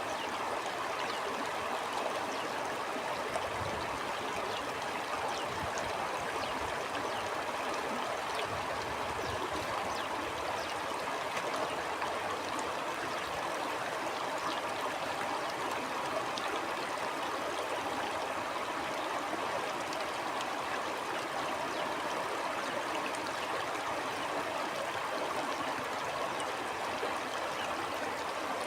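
Stream flowing steadily: an even, unbroken rush of running water.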